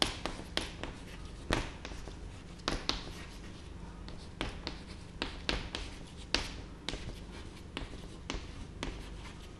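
Hand writing on a board: a string of irregular taps and short strokes as the answer is written out.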